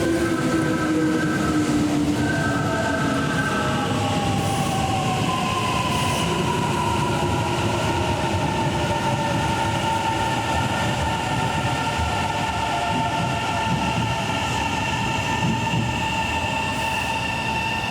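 Kintetsu electric commuter train pulling into the platform: its traction motor whine falls steadily in pitch as it brakes, then high steady squealing tones hold as it slows to a stop.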